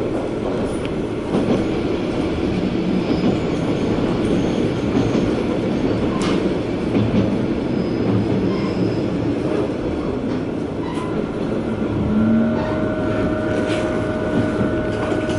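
Diesel railcar heard from inside the passenger cabin while running: a steady rumble of engine and wheels on the rails, with a few sharp clicks. About eleven seconds in, a thin steady whine sets in and holds.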